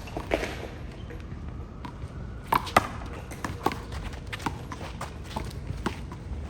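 Handball rally: an irregular series of sharp smacks as the small rubber ball is struck by hand and rebounds off the wall and court, the loudest pair about two and a half seconds in.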